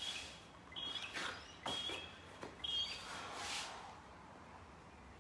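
A bird chirping a short, high note about once a second, four or five times, with scuffs and rustles as an exercise mat is laid on a concrete ledge.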